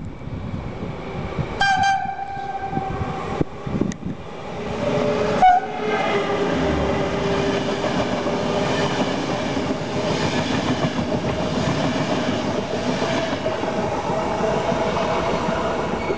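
Electric train passing through a station, wheels clattering over rail joints, with a short horn blast about two seconds in and a second pitched tone about five seconds in that settles into a steady drone over the running noise.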